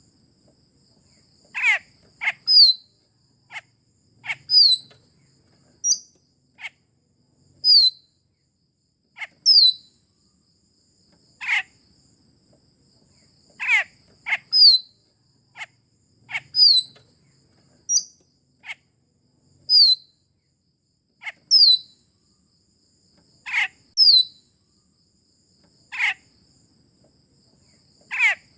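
Sulawesi myna (raja perling) giving short, sharp downward-sliding calls, repeated about every one to two seconds, over a steady high thin whine.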